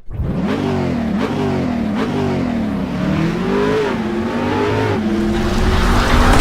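Motocross bike engine revving, its pitch climbing and dropping back several times as the throttle is worked.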